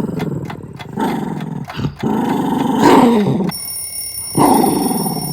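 Shih Tzu vocalizing in four long, wavering grumbles whose pitch slides up and down, with short pauses between them: an excited dog demanding play.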